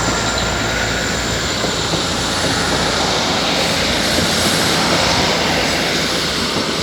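A Class 158 diesel multiple unit coupled to a Class 156 moving past, its underfloor diesel engines running in a loud, steady drone with rail and wheel noise. A thin steady whine in the first second or so fades out.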